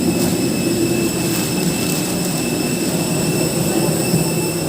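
Steady airliner cabin drone: a constant low hum under a thin, high steady whine from the jet's engines and air systems.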